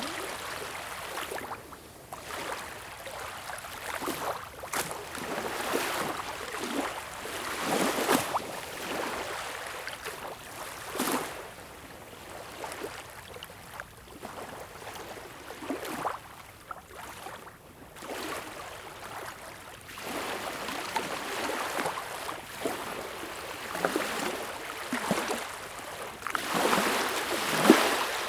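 Sea waves lapping and splashing in irregular surges every second or two, with a louder splash near the end.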